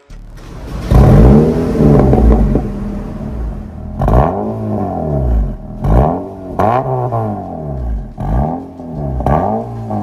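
Honda HR-V's R18 1.8-litre four-cylinder engine revving through an MS-R valved cat-back exhaust. There is one long rev that rises and falls about a second in, then a string of quick throttle blips from about four seconds in.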